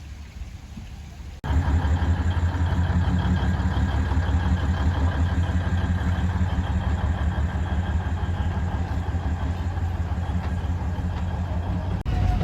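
A vehicle engine running steadily with a low, even hum. It starts abruptly about a second and a half in, after faint ambient sound.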